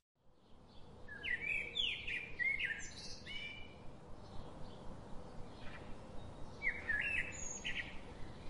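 Small birds chirping in quick runs of short falling notes, one burst about a second in and another near the end, over a faint steady outdoor background.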